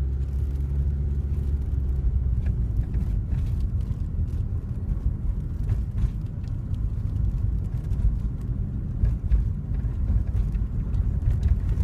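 A car driving, heard from inside the cabin: engine and road noise as a steady low rumble.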